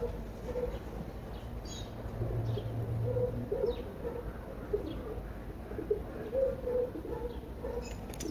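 Birds calling: short low notes repeated in loose phrases, with a few brief high chirps.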